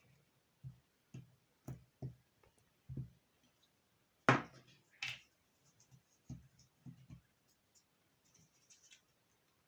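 Hands handling paper and craft tools on a tabletop: a string of soft irregular taps, with two louder brief scraping rustles about four and five seconds in.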